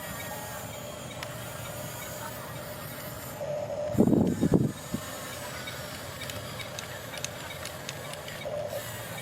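Small electric motors and gearboxes of RC construction toys whirring steadily, with a louder burst about four seconds in lasting about half a second.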